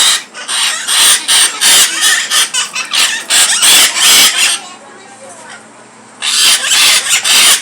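Parrots squawking in rapid, harsh, screechy calls, several a second, pausing for a moment about two-thirds of the way through and then starting again.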